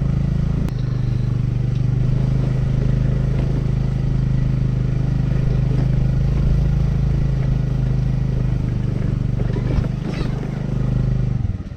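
Small motorbike engine running at a steady speed while riding. Near the end the sound drops off sharply and the engine falls to an uneven, pulsing tick-over.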